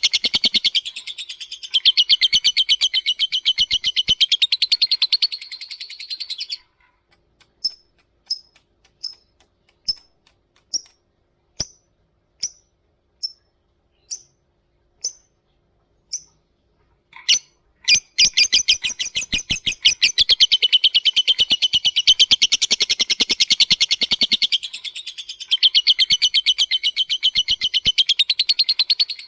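Lovebird calling: a long, rapid chattering trill (the 'ngekek'), which breaks off about six seconds in into a string of single sharp chips roughly one every 0.7 seconds (the 'ngetik'). The long rapid trill then starts again about twelve seconds later and runs on.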